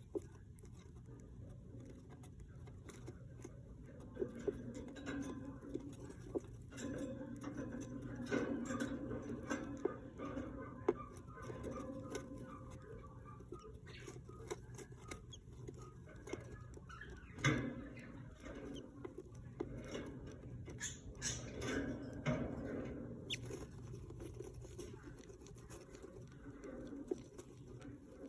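Budgie chicks and their parents moving in the nest: soft scratching and rustling with scattered small clicks, and faint high chirping in the middle.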